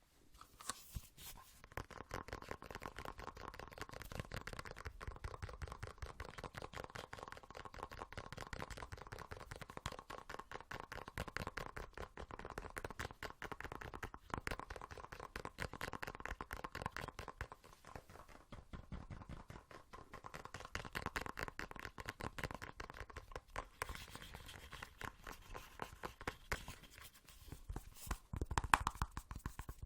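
Fast ASMR tapping and scratching close to the microphone: a continuous, dense stream of small clicks, with a few louder knocks near the end.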